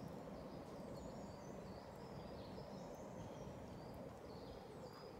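Small birds singing faintly in a run of short, high whistled notes that step up and down, over a steady low background rumble.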